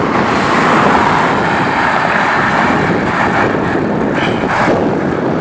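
Steady rushing noise of road traffic passing, mixed with wind on the microphone of a moving bicycle.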